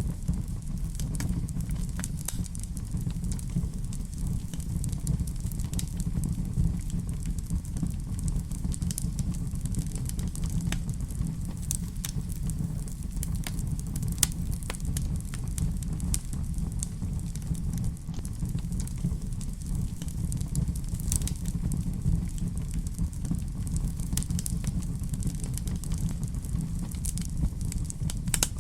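Wood fire crackling in a fireplace: a steady low rumble of flames with scattered sharp pops and snaps throughout.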